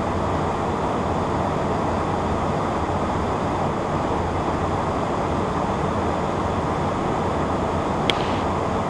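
Steady cockpit noise of a Beechcraft Premier 1 business jet in the climb: airflow and the rumble of its twin Williams FJ44 turbofan engines. A brief click sounds near the end.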